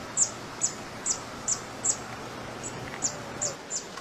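A bird repeating a short, high chirp that falls in pitch, about two times a second, with the later chirps a little softer.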